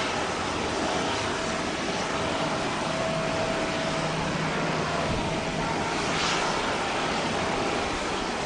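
Jet airliner engines running, a steady roar with a faint steady whine over it.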